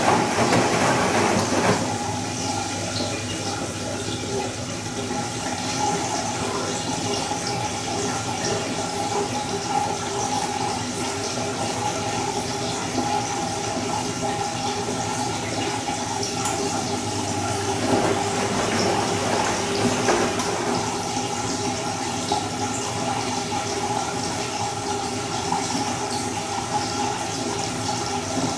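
Bosch Serie 2 VarioPerfect washing machine on its Silk program: water rushing and sloshing in the drum over a steady machine hum, a little louder for the first two seconds.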